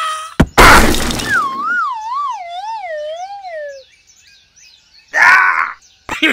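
Edited-in cartoon sound effects: a sudden crash about half a second in, then a wobbling tone that slides steadily down in pitch for about two and a half seconds.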